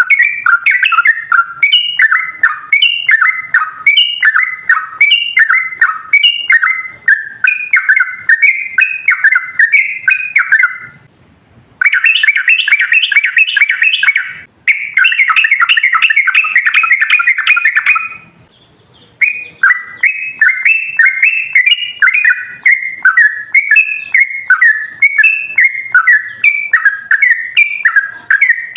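Yellow-vented bulbul (trucukan) singing loud, bubbly phrases over and over, about two a second. In the middle it breaks into two stretches of fast, unbroken rapid chatter, the long 'ropel' song, with short pauses around them.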